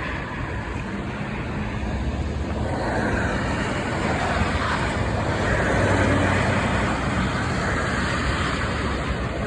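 Street traffic: motor vehicles running and passing, the noise swelling to its loudest about six seconds in.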